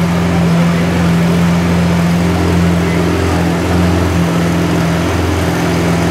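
Lamborghini Aventador LP700-4's 6.5-litre V12 idling steadily at an even, unchanging pitch, with no revving.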